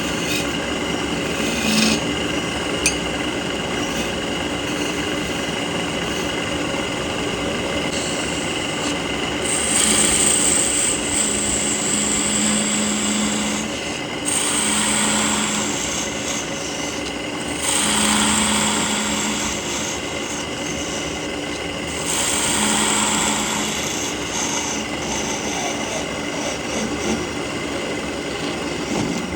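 Power tool running steadily, with four stretches of a few seconds each where it bites into wood and the sound grows louder and hissier.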